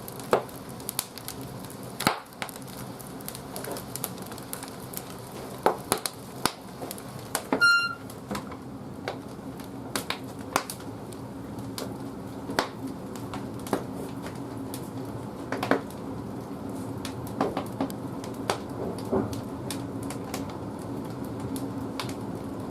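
Firewood burning in an old wood-fired boiler, crackling and popping in irregular sharp cracks over a steady low hum. There is one brief high squeak about a third of the way in.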